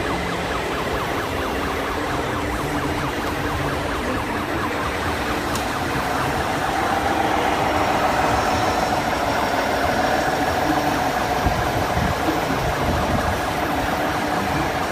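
Sound units of 1:14-scale radio-controlled trucks playing a recorded diesel truck engine, with a steady tone joining about six seconds in.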